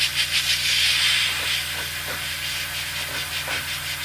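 Airbrush spraying paint, a hiss that pulses rapidly, louder for the first second and a half and then softer, over a steady low hum.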